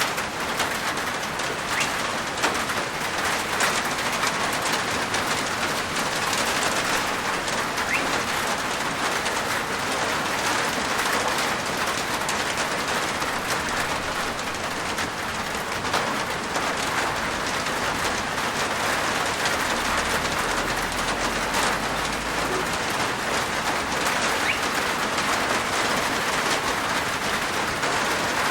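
Steady rain falling on a roof, a dense even patter with many individual drops ticking throughout.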